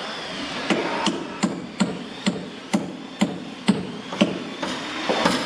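Hammer blows on wood, about nine strikes at roughly two a second.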